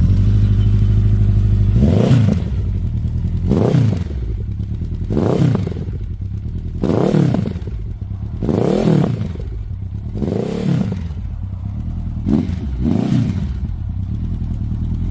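Honda CB1100EX's air-cooled inline-four engine, fitted with a Ryujin aftermarket exhaust, running at a steady fast idle. About two seconds in it is revved in a series of about eight short throttle blips, each rising and falling, roughly every one and a half to two seconds.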